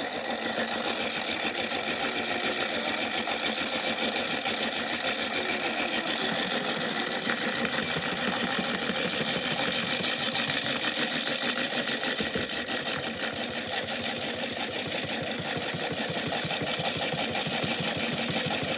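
Washing machine running with a big rock inside: a steady, dense, rapid clatter of the rock knocking around in the drum.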